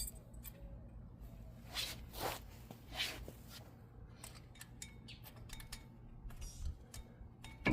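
Brake pads and caliper hardware being handled: scattered light metallic clicks and a couple of short scrapes.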